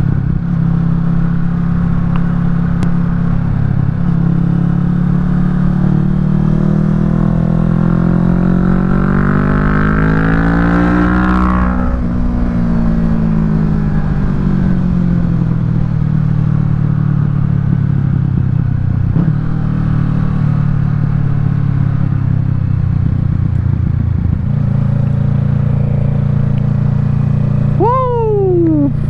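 Kawasaki Ninja 650's parallel-twin engine running through a Yoshimura Alpha full exhaust while riding. The engine pitch climbs steadily for several seconds as the bike accelerates, drops away, then settles into a steady cruise. A short falling tone comes in near the end.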